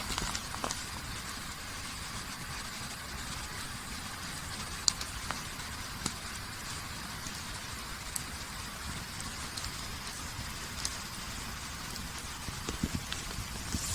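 Wood campfire burning with a steady hiss and occasional sharp pops and crackles, a handful spread across a few seconds.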